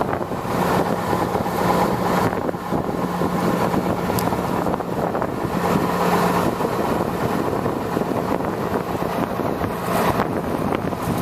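International medium-duty truck engine running steadily, a constant low hum under even mechanical noise.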